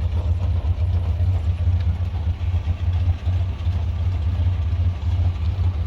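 GMC Sierra 1500 pickup engine running at idle, a steady low drone heard from the back of the truck.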